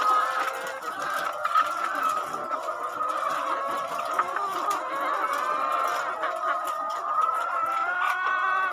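A large flock of laying hens clucking and calling all at once in a dense, steady chorus, with one louder call near the end.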